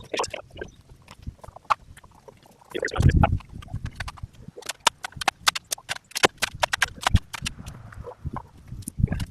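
A heavy thump about three seconds in, then a rapid run of sharp clicks and knocks, from handling the wooden boards and fasteners of a concrete form.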